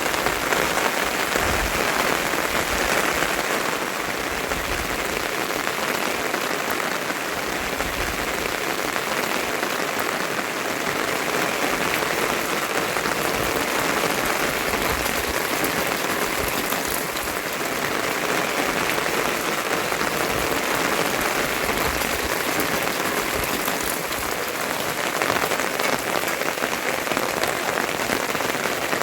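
Steady rain falling and pattering on surfaces, an even continuous hiss of many drops.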